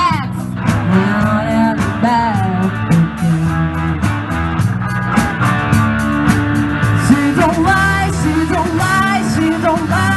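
Live rock band playing, with a lead guitar line bending notes over bass and drums.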